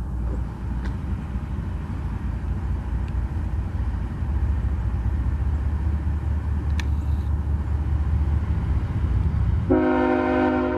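Diesel locomotive of a passing train running with a steady low rumble. Near the end its air horn starts sounding, a chord of several tones held steady.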